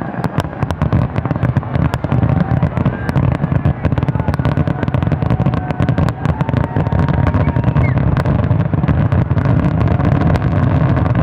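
Fireworks finale: a dense, unbroken barrage of shell bursts, many bangs a second over a deep continuous boom.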